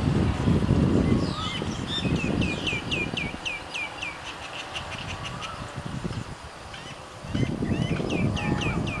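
A bird calling in two runs of quick, high, downward-sliding notes, about four a second, over a low rumble.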